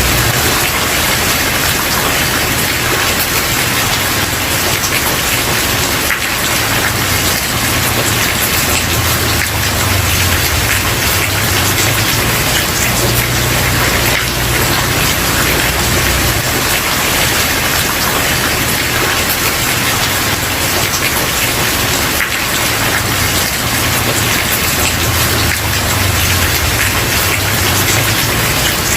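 Steady heavy rain falling on a wooden porch, an even hiss of many drops with no pauses. A low rumble swells and fades underneath.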